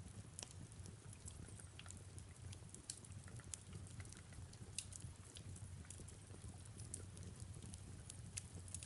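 Fireplace crackling, with many irregular sharp pops, over a steady low rumble and soft rain.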